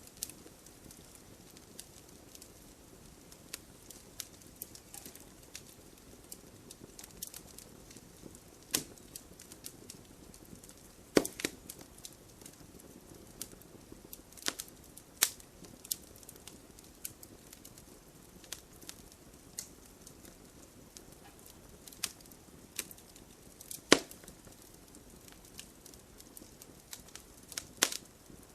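Wood fire in a fireplace crackling, with sharp pops from the burning logs at irregular intervals over a soft, steady hiss of flame. The loudest pops come about eleven seconds in, about twenty-four seconds in and near the end.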